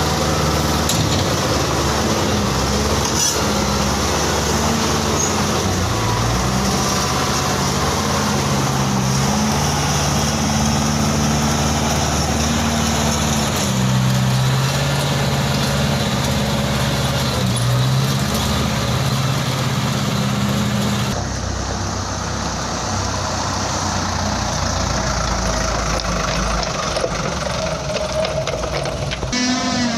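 A Toyota Dyna dump truck's diesel engine runs steadily, its note stepping up and down every second or two. The high hiss drops away about two-thirds of the way through, and a rising engine note starts right at the end.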